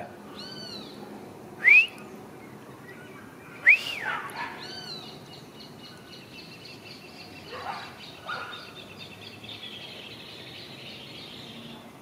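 Birds calling: two loud whistled notes that sweep up and fall back, a few small arched chirps, then a long rapid trill from about five seconds in.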